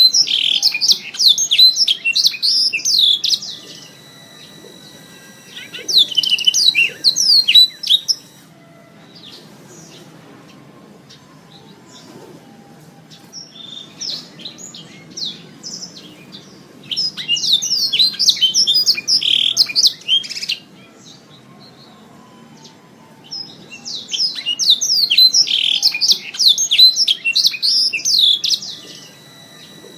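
Domestic canary singing: four long bouts of fast, high, rolling trills and warbles, with faint scattered chirps and a low background hiss in the gaps between bouts.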